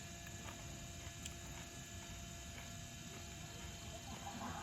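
Light rain pattering, with scattered faint ticks of drops and a faint steady electrical hum underneath.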